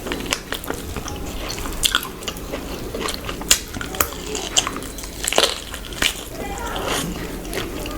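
Close-miked mukbang eating: irregular crisp bites and crunches mixed with wet chewing and mouth smacks.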